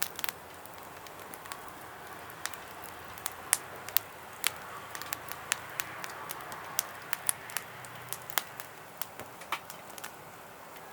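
Wood fire crackling, with irregular sharp pops a few times a second over a low steady hiss.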